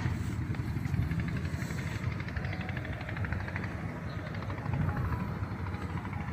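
A 10 HP diesel engine running steadily with a low rumble, driving a carrot washing machine.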